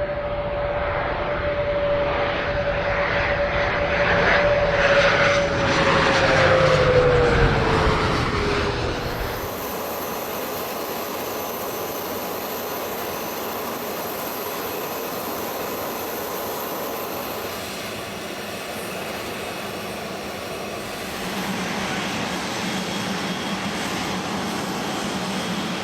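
Private jet's engines running, with a whining tone that falls in pitch. About nine seconds in, the sound changes abruptly to a steadier, quieter hiss.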